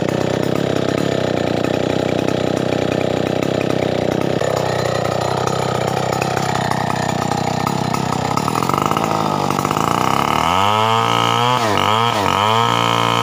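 Stihl 070 two-stroke chainsaw running steadily at high revs, then, about two-thirds of the way in, its engine is revved up and down several times in quick succession.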